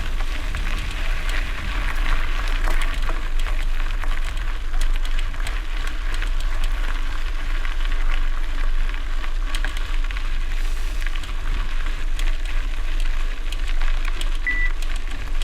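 Bicycle tyres crunching and crackling over loose gravel, with a steady low wind rumble on the microphone. A brief high beep sounds near the end.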